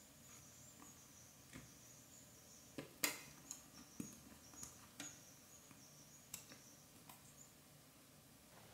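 Quiet, scattered light clicks and taps, the sharpest about three seconds in and a handful more after it, over a faint steady high hiss.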